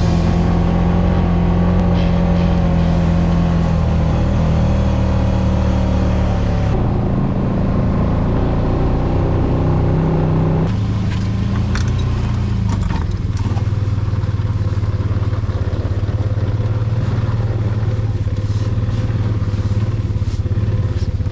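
ATV engine running steadily under way, its note shifting lower twice, at about 7 and 11 seconds in, as speed changes, with some clatter.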